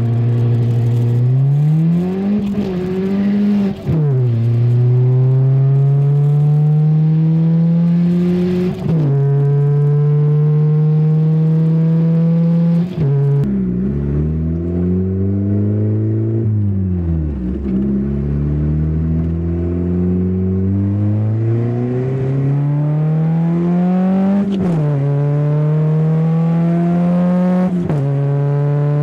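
Turbocharged 1990 Honda CRX's 1.5-litre D15B2 four-cylinder engine pulling hard through the gears. The engine note climbs in each gear and drops sharply at every gear change, several times over. Midway the revs fall off and pick up again before it pulls on.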